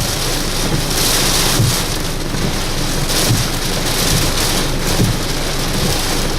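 Heavy wind-driven rain and gusting wind from Tropical Storm Irene, a dense rush of noise that swells and eases. A low thump comes back about every second and a half to two seconds.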